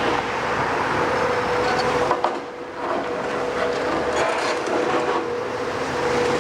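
Heavy construction machine (excavator or wheel loader) running steadily with a constant whine, with one knock about two seconds in.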